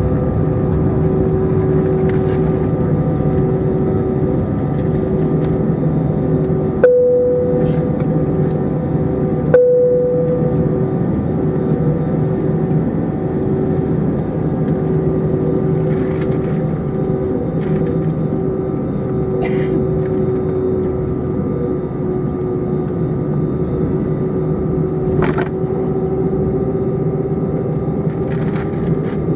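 Airbus A320 cabin noise in flight: a steady drone of engines and airflow with several steady humming tones. Two sharp clicks come about three seconds apart, a third of the way in. Later the main hum sags slightly in pitch and then rises again.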